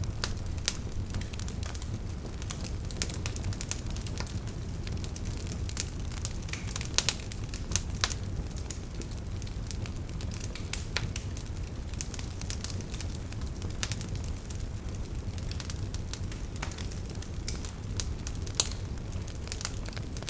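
Wood campfire crackling: irregular sharp snaps and pops of burning firewood over a steady low rumble, with a couple of louder pops about seven seconds in and near the end.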